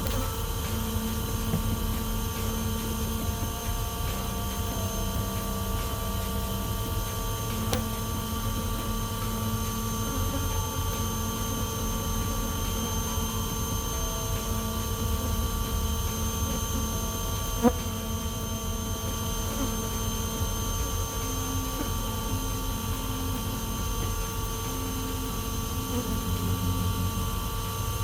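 Many honeybees buzzing around the microphone, a dense wavering hum from an agitated colony whose comb is being cut out, over a steady underlying drone. A single sharp tap about two-thirds of the way through.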